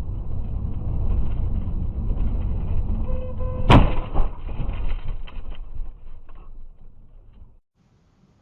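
Vehicle collision heard from a dashcam: steady road and engine rumble, a brief pitched tone, then a loud impact about four seconds in, followed by fading knocks and clatter. The sound cuts off suddenly near the end.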